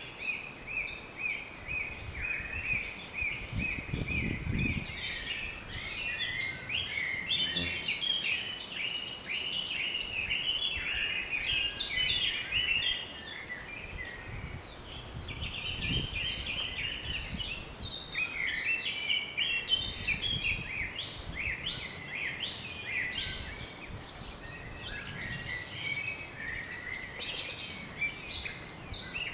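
Several songbirds chirping and trilling almost without pause, many calls overlapping. Brief low rumbles of wind come and go, most clearly about four seconds in and again near the middle.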